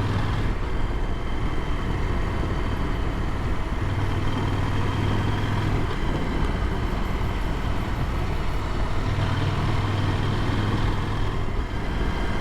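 KTM motorcycle engine running steadily while riding, with wind rush. The engine note grows stronger twice, about four and about nine seconds in.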